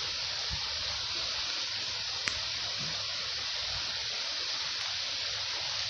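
Heavy rain pouring down steadily as an even hiss. One sharp tick sounds about two seconds in.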